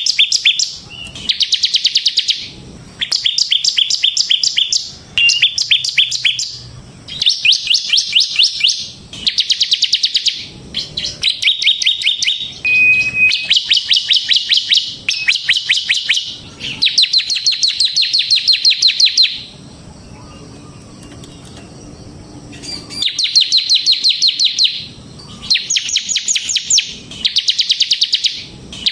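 Ciblek semi (bar-winged prinia) singing loud, rapid trilled phrases, each one to two seconds long, with short gaps between them and one longer pause about two-thirds of the way through.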